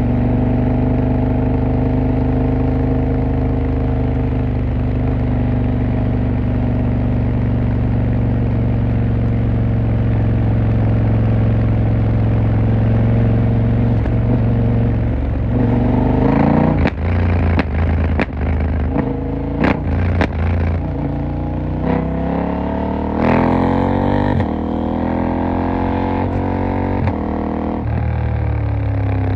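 KTM 890 Duke R's parallel-twin engine running steadily at first, then revving up in several rising pulls with sharp cracks in between during the second half before settling again near the end.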